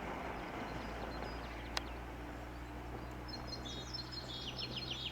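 A small bird chirping in a quick run of high notes over the last second and a half, over quiet outdoor background noise and a faint steady low hum. A single sharp click about two seconds in.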